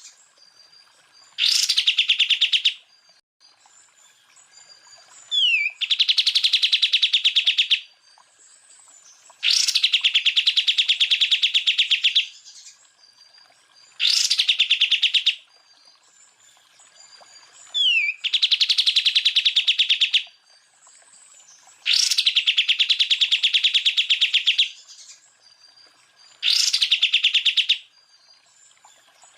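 Cucak ijo (green leafbird) singing: loud phrases of very rapid, machine-gun-like repeated notes, the 'tembakan' prized by bird keepers, each about one to three seconds long and opening with a sharp high note. The phrases come seven times, about every four seconds, with a few softer chirps in the gaps.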